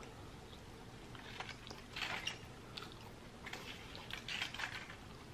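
A person chewing ketchup-covered french fries: soft, wet mouth sounds and small smacks, coming in clusters about two seconds in and again past the middle.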